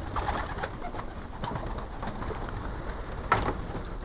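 Young racing pigeons in a loft cooing and moving about, with many small scattered clicks and a sharp knock about three seconds in.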